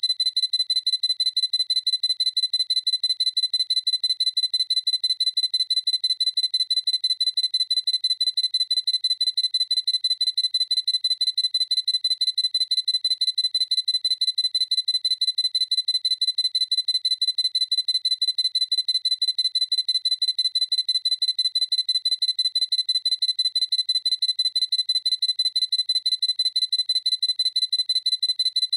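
Sony A7C camera's autofocus confirmation beep, repeated over and over as a fast, evenly spaced series of short, high electronic beeps.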